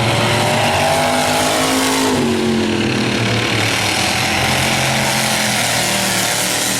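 Several demo race cars' engines running together at different pitches over a steady din, their pitches rising and falling as they accelerate and lift; one engine's pitch drops about two seconds in.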